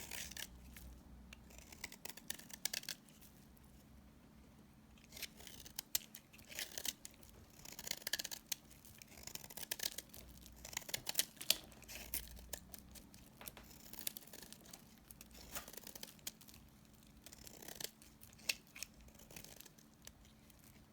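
Soap remnants being cut, crunching and crackling crisply in short bursts of strokes every second or two, with brief quiet pauses between.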